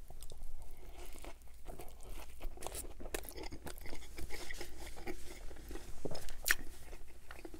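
Close-miked eating: a bite into a grilled, panini-pressed sub of breaded chicken cutlet, then chewing it with the mouth closed, with irregular short clicks and crackles.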